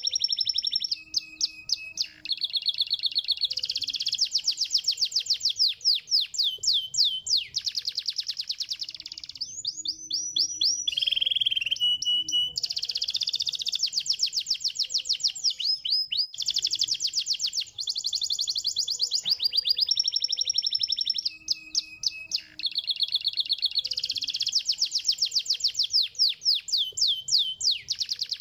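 Domestic canary singing a long, continuous song of rapid high trills. Each trill lasts a few seconds, some held on one pitch and some sweeping up and down, with short breaks between them.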